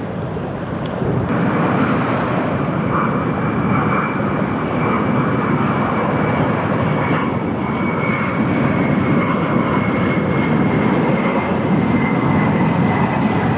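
Airliner engines passing, a steady rumble with a thin high whine that slowly falls in pitch.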